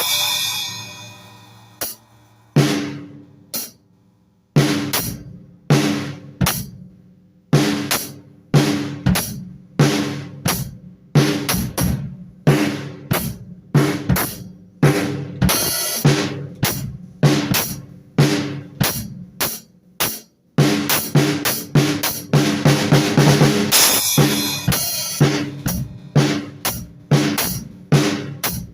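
Drum kit played freely, without a steady groove. An opening stroke rings out and fades, then after a short pause come separate hits on drums and cymbals about one or two a second, with a brief stop about two-thirds through, then quicker, busier playing with a cymbal wash.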